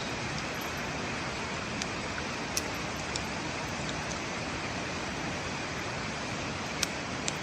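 Heavy rain making a steady, dense hiss, with a few sharp pops breaking through it.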